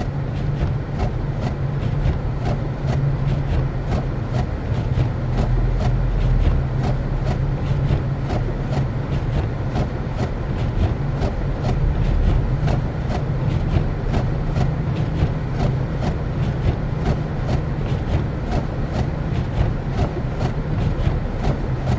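Car driving on snow-covered streets: a steady low rumble of engine and tyres, with a faint regular ticking about twice a second.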